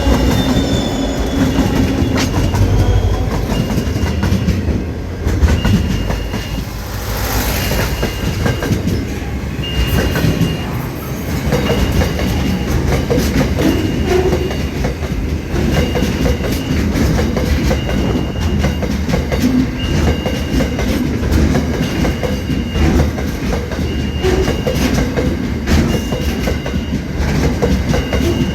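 Aurizon freight train running steadily, a continuous rumble of wagons with the wheels clacking over rail joints. A short high beep repeats about every one and a half seconds.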